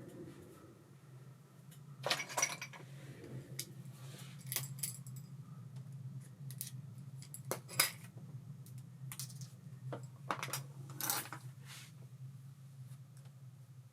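Small metal parts clicking and clinking irregularly as they are handled, with sharper clinks about two, eight and eleven seconds in, over a steady low hum.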